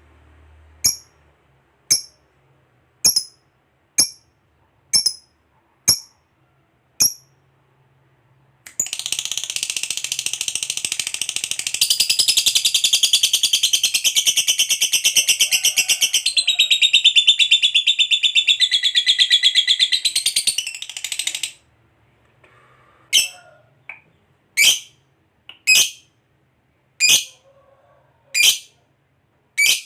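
Lovebird giving sharp single chirps about once a second, then a long, rapid chattering trill (the prized 'ngekek panjang') lasting about thirteen seconds. The trill breaks off into single chirps again near the end.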